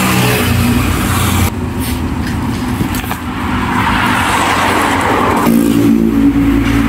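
A motor vehicle engine running steadily under a noisy rush of sound, which shifts about a second and a half in and again near the end.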